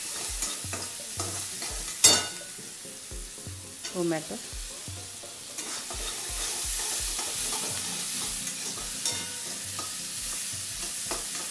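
Metal spatula stirring and scraping onions and tomatoes around a hot oiled kadhai, with a steady sizzle of frying and regular scraping strokes a few times a second. A single sharp knock about two seconds in is the loudest moment.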